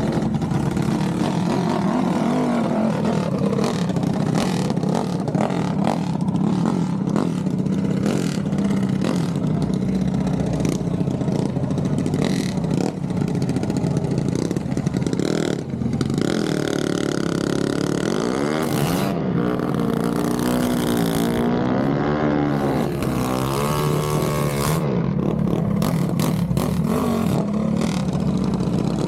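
Engines running steadily, with repeated revving that rises and falls in pitch about halfway through, over scattered clattering.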